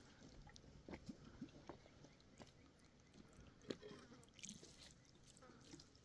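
Near silence broken by faint, scattered short clicks and light knocks.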